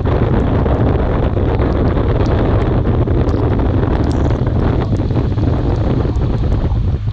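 Heavy wind buffeting the microphone: a loud, steady low rumble with hiss over it, as from moving through open air.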